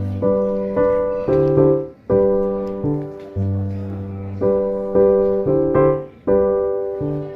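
Background piano music: chords struck about every half second to a second, each note starting sharply and fading away.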